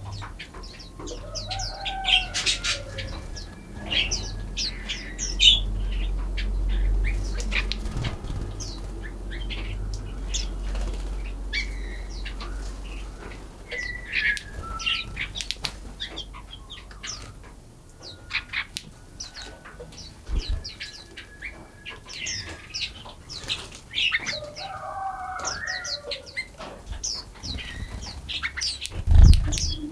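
Wild birds chirping in many short, high calls, with a few lower, curving calls around a second or two in and again near the end. A low rumble sits under the first half, and a loud low thump comes just before the end.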